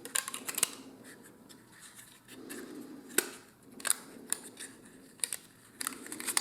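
Small wooden kit parts being handled and set down on a work surface: about eight light, irregular clicks and taps with soft rustling between them.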